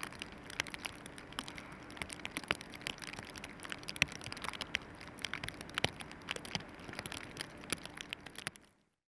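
Snowstorm precipitation pattering: dense, irregular soft ticks and crackles over a quiet hiss, fading out near the end.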